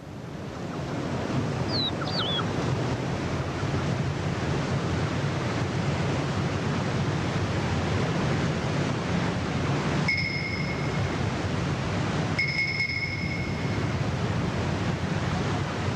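Steady rushing wind-like outdoor noise. About two seconds in come two brief chirps, and later two steady high whistled notes of about a second each.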